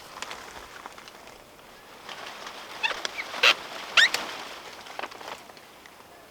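A bird giving a few short, quick rising chirps around the middle.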